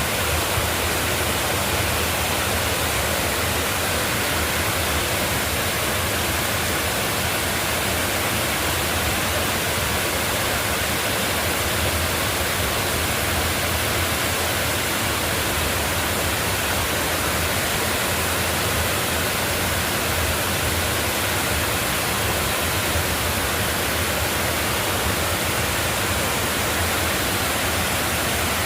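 Loud, steady rush of water, even and unbroken throughout.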